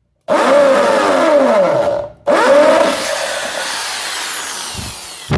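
Electric drill with a 9/64-inch bit drilling into a fan motor's end housing: two runs, the first stopping after about a second and a half, the second starting a moment later and trailing off toward the end.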